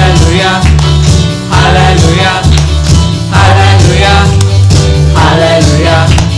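Upbeat praise-and-worship song: a band with a pulsing bass line and drums, with voices singing over it.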